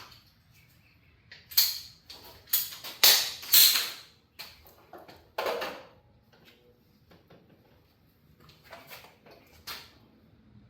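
A run of short rasping and scraping noises from hand work on the plumbing, loudest in a cluster about two to four seconds in, with a few more near the end.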